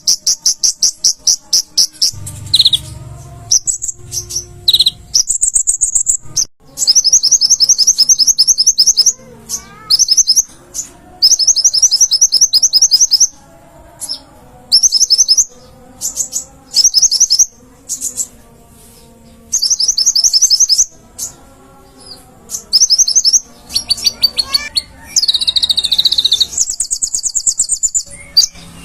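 Kolibri ninja (konin), a small sunbird, singing: bursts of rapid, very high-pitched trilled notes, repeated again and again with short pauses between them.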